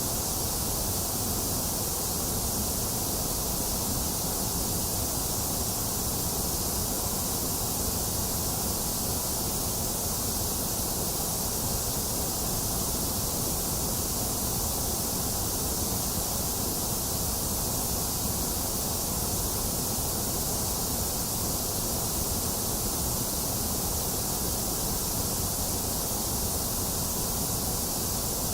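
Steady electronic white noise: an even, unbroken hiss with a strong high rush and a strong low rumble, quieter in the middle of the range.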